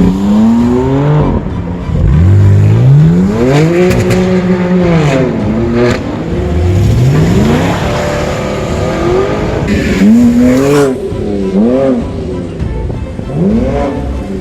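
Car engine being revved hard several times, its pitch climbing and dropping in long sweeps, then in a few short, quick blips near the end.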